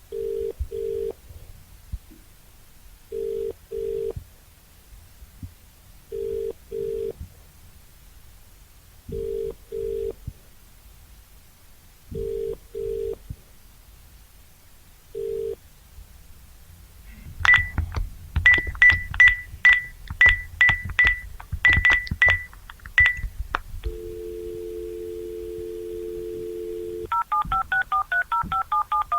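Telephone line tones: a low ringing tone in double pulses about every three seconds, the ring-back a caller hears, then quick clicking keypad beeps, a steady dial tone for about three seconds, and a rapid run of touch-tone dialing beeps near the end.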